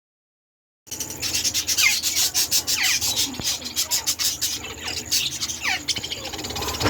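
Green parrots giving short falling chirps over a dense, rapid scratching and rustling noise that starts about a second in.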